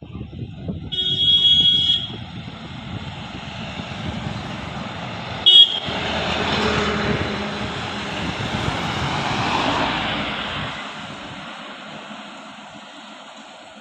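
A truck passing on the road. A horn sounds for about a second near the start, with a short toot about five seconds in. Engine and road noise then swells to a peak and fades away as the vehicle goes by.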